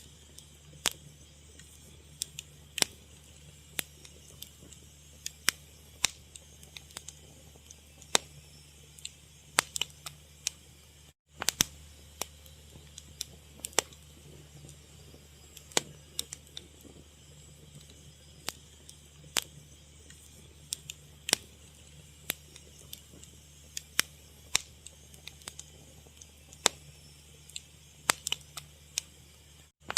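Wood fire crackling: irregular sharp pops and snaps over a low steady hum and hiss. The sound cuts out for an instant twice, about 11 seconds in and near the end.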